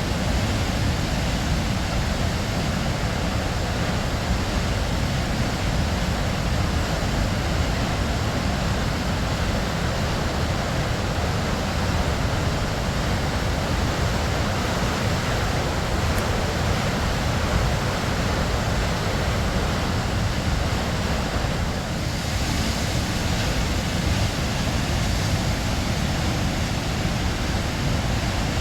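Waterfall pouring, a steady, unbroken rush of falling water, a little brighter and hissier from about three quarters of the way through.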